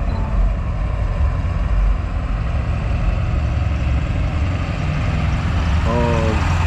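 Truck engine running at idle, a steady low rumble.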